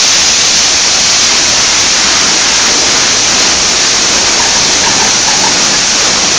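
Automatic car wash's high-pressure water jets spraying the car during the pre-wash: a loud, steady hiss of water that starts suddenly at the beginning and holds without a break.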